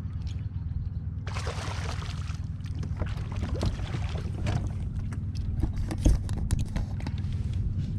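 Steady wind rumble on the microphone aboard a kayak, with a brief hiss about a second in. Scattered clicks and knocks of handling on the kayak follow, with one loud thump about six seconds in.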